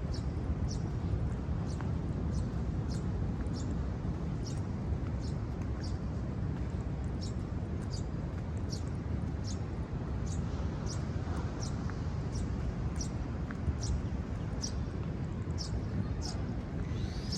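Steady low rumble of ocean surf, with a short, high chirp repeating about every three-quarters of a second.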